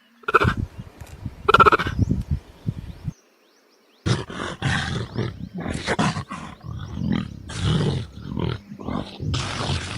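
Two short, pitched bleat-like animal calls, then about a second of near silence, followed by a run of harsh, rasping animal calls.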